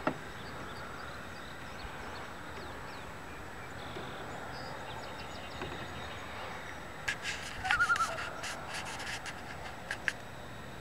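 Steady low outdoor hiss with faint bird calls. About seven seconds in comes a cluster of short, sharp clicks, with a brief wavering bird call among them.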